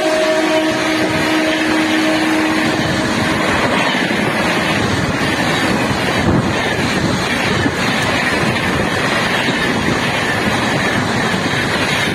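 Express train of LHB passenger coaches passing close by at high speed: a steady rush of wheels on rail and wind. The electric locomotive's horn holds one steady note for the first three seconds or so and fades out under the rush.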